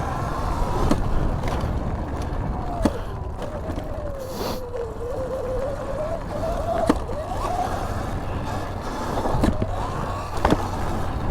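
Sur-Ron electric dirt bike riding over a track: the electric motor and drivetrain whine, rising and falling in pitch with the throttle, over a steady rumble of wind and tyres on dirt. Several sharp knocks break through, about five in all.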